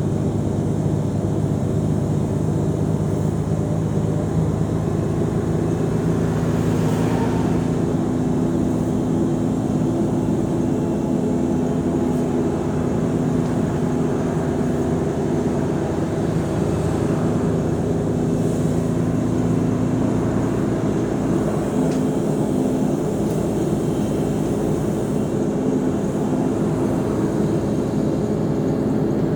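Diesel engine of a Mercedes-Benz O345 Conecto G articulated city bus running steadily under way, its tone shifting slightly in pitch now and then.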